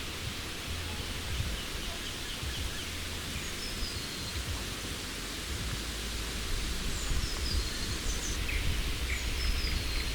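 Steady rustling outdoor noise with wind buffeting the microphone, and small forest birds chirping now and then, more often in the second half.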